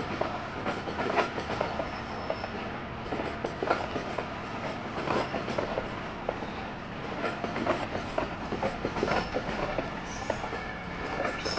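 Passenger coaches of a passing express train rolling by on the track. The wheels clatter over the rail joints in a steady, uneven run of clicks and knocks.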